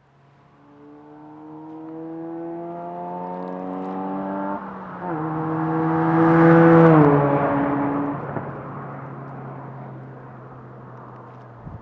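2004 Honda Civic EX's 1.7-litre four-cylinder through a Magnaflow 2.25-inch cat-back exhaust, accelerating past: the engine note climbs, dips at an upshift about four and a half seconds in, climbs again, then drops in pitch as the car goes by about seven seconds in and fades away.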